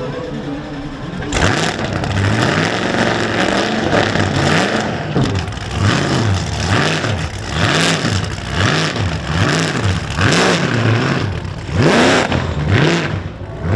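Car engine revved hard in a steady rhythm, its pitch rising and falling a little more than once a second.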